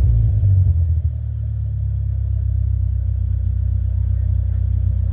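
2014 Ford EcoSport engine through an Ironcrafts Silent L dual-outlet full-system exhaust, falling back from a rev and settling to a steady, even idle about a second in.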